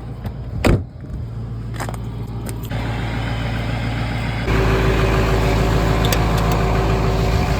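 Motor vehicle engine running steadily, stepping up louder about halfway in. There is a sharp knock under a second in and a few lighter clicks.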